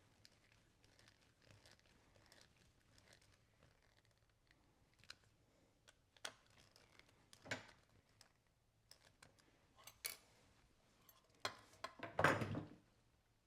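Small workbench handling sounds from a leather belt and its hardware: scattered faint clicks and taps, then a louder scraping rustle near the end.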